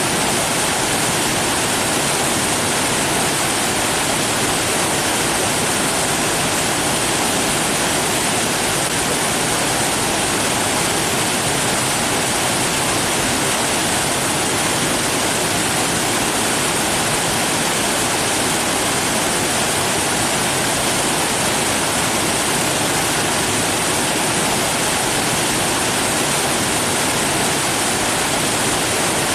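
Steady, unbroken rush of falling water, a constant hiss with no changes.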